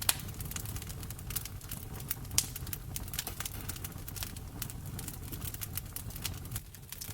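Wood fire in a fireplace crackling: frequent irregular sharp pops and snaps over a steady low rumble, with two louder pops, one right at the start and one about two and a half seconds in.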